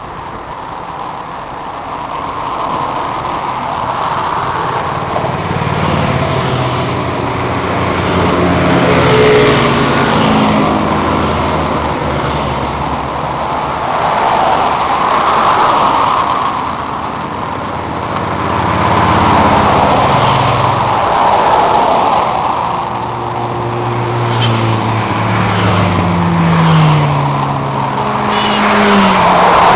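Motorcycles riding in a group. Several times their engines climb in pitch under acceleration, over a rushing wind and road noise that swells and fades every few seconds.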